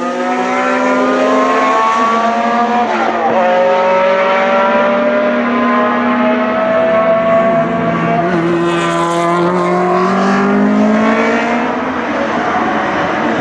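Several racing car engines accelerating past, their notes overlapping and climbing steadily in pitch. About eight seconds in, one lower engine note drops, then climbs again.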